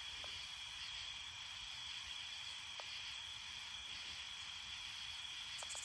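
Faint, steady chorus of night insects, an unbroken high buzzing trill, with a few faint ticks.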